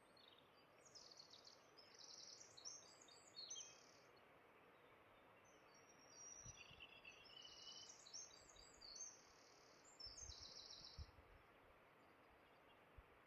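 Near silence, with faint birds chirping in two short spells of high calls and a few soft low thumps.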